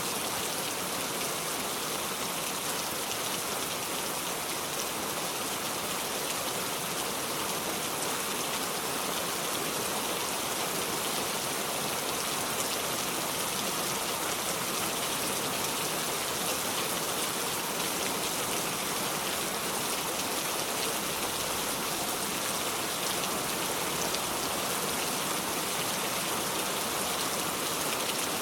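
Steady heavy rain falling without thunder, an even hiss of raindrops that doesn't change.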